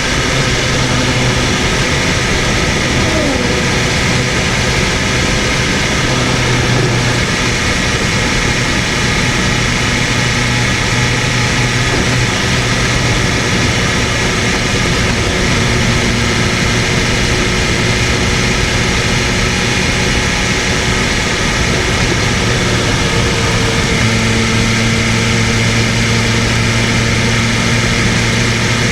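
BMW M1000RR superbike's inline-four engine running at a fairly steady engine speed over a steady rush of noise, with no big revs.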